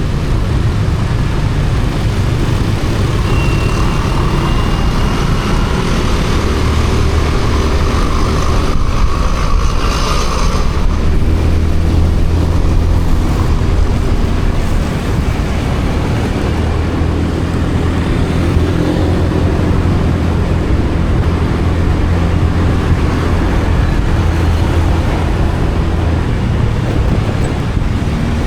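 Motorcycle engine running steadily on the move, with dense wind and road noise and passing traffic.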